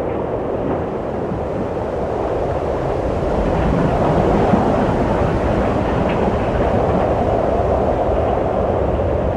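Wind blowing steadily in a low rushing wash, swelling slightly a few seconds in and then holding.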